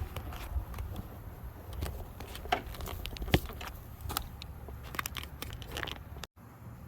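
Scattered light clicks and knocks of hands handling tools or hardware, over a low steady rumble; the sound drops out for a moment near the end.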